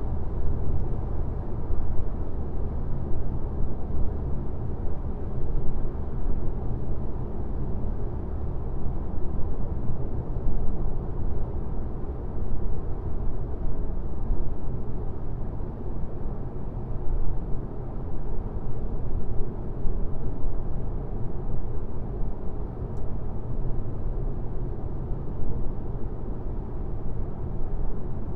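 Car driving on a highway: a steady, low road rumble of tyres and engine, with no sharp events.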